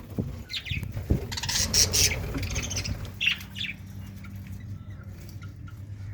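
Budgerigars chirping and squawking in short bursts, busiest in the first three and a half seconds and thinning out after, over a low steady hum.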